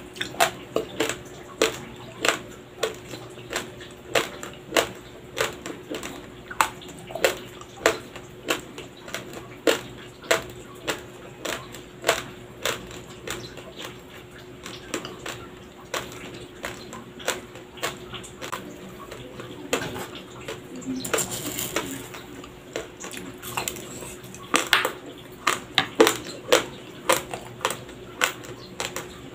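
Close-miked crunching of raw, uncooked Dinurado white rice grains being chewed: sharp, brittle crunches about twice a second, softer and sparser for several seconds in the middle.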